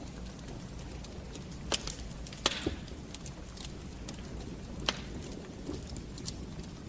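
Wood fire in a fireplace crackling: a few sharp pops of burning logs, the loudest about two and a half seconds in with a short hiss after it, over a steady low rumble.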